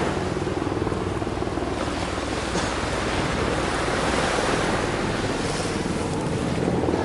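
Ocean surf washing on the beach, with wind buffeting the microphone in a steady rush and low rumble.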